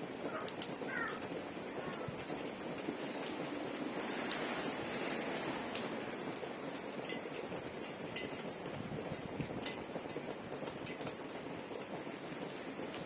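Steady rainfall, an even hiss with scattered drop ticks.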